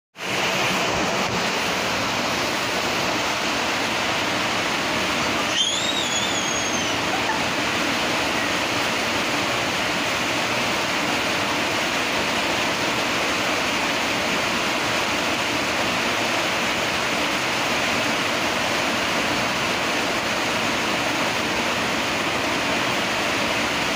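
Heavy rain pouring down steadily on a road. A brief high squeal that rises and falls comes about six seconds in.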